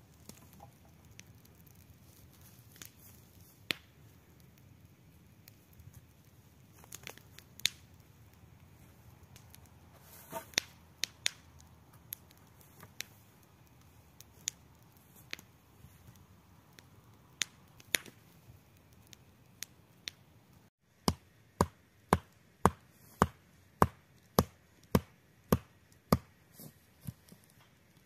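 Scattered light knocks and clicks, then, after a cut about 21 seconds in, a steady run of sharp chopping strikes, about two a second.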